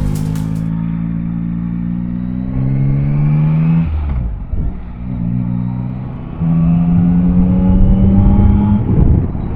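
Yamaha Tracer 9's inline-three engine accelerating under load, its pitch rising steadily, dropping at a gear change about four seconds in, then climbing again with a sharp step up in throttle and falling off near the end.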